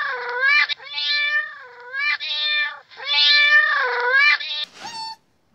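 Kitten meowing over and over in long, drawn-out calls that dip and rise in pitch, with a shorter meow near the end.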